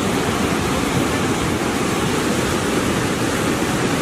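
River in full flood rushing past, carrying debris: a loud, steady rush of water with no breaks.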